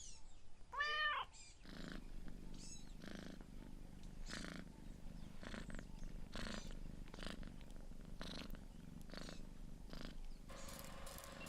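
Domestic cat giving one short meow about a second in, then purring in soft, even breaths of about one and a half a second.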